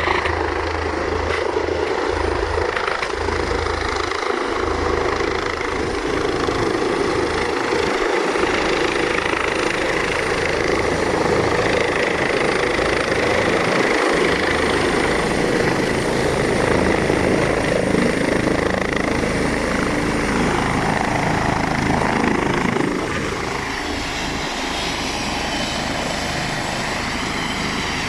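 Helicopter running close by, a loud steady rotor and turbine noise that drops slightly about five seconds before the end.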